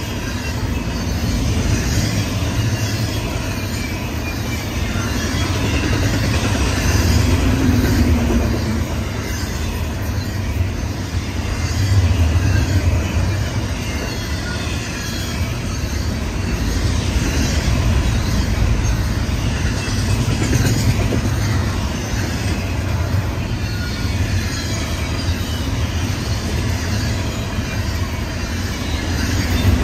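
Double-stack intermodal container train rolling past: a steady, loud rumble of well-car wheels on the rails, swelling and easing every few seconds, with faint high wheel squeal over the top.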